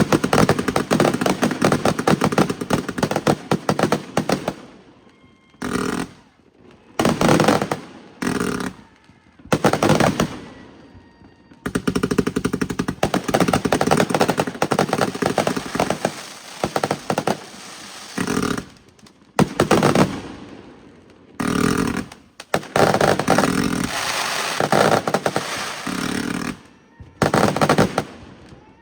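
Fireworks crackling: long strings of rapid pops, like chains of firecrackers, going off in bursts of a second to several seconds with short breaks between them.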